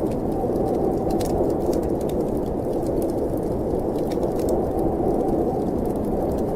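Steady rushing wind of a snowstorm, with a wood fire crackling in a fireplace: scattered sharp pops and ticks over the wind.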